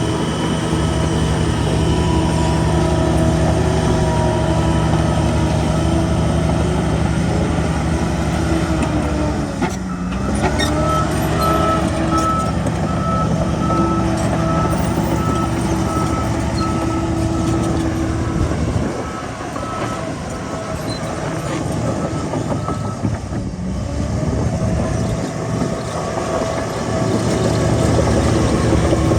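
Shantui bulldozer's diesel engine running, its pitch dipping and recovering about a third of the way in. Through the middle stretch a reversing alarm beeps steadily, then stops.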